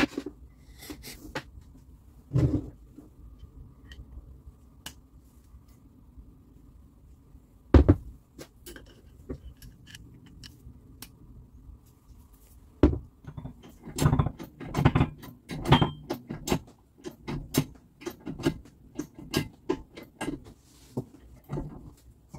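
Hands working on machine parts: irregular knocks, clicks and clatter of tools and parts being handled, a few heavy knocks in the first half and rapid busy clatter from about halfway on.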